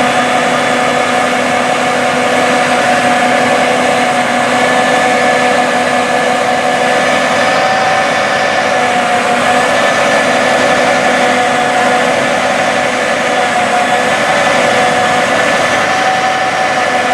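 John Deere S790 combine's diesel engine and threshing machinery running steadily while harvesting wheat: a constant drone with a steady whine over it.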